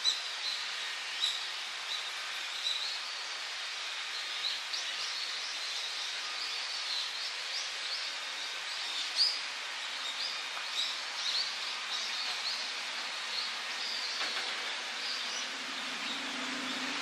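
Small birds chirping in many short, quick calls over a steady outdoor hiss. A low hum comes in near the end.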